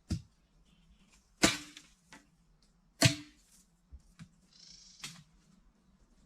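Sharp strikes of a tool on bamboo or wood, roughly one every one and a half seconds, with fainter knocks between. The two loudest, a little after one second and about three seconds in, each carry a short ring.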